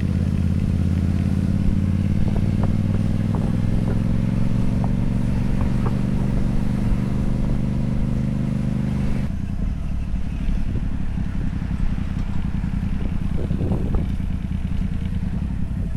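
Motorcycle engine running under steady throttle, its note slowly rising for about nine seconds, then cutting back abruptly to a rougher, lower note as the throttle is eased off.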